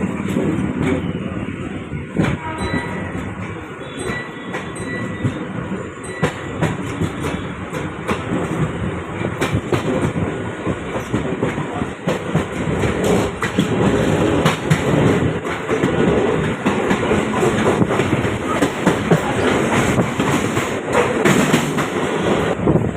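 Moving suburban electric train running on the tracks: a steady rumble with the wheels clattering over rail joints, the clatter growing busier about halfway through.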